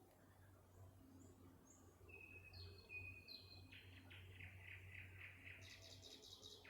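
Nightingale singing, faint: a few short clear whistles, then a fast rattling trill from about three and a half seconds in, and a higher, quicker trill near the end.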